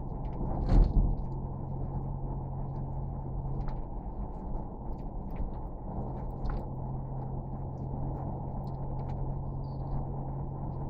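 Steady low mechanical rumble with a constant hum, and one loud thump about a second in, with faint scattered clicks.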